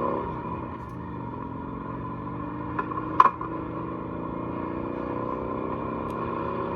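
Motorcycle engine running, its pitch dropping off at the start and then climbing slowly as it speeds up again; one sharp click about three seconds in.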